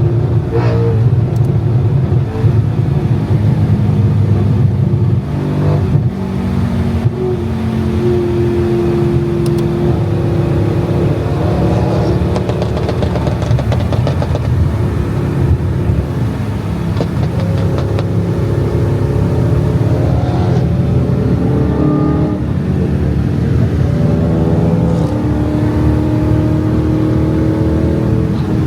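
Car engine running under way, its pitch rising and falling repeatedly as it revs up and shifts, over a steady low rumble of road noise.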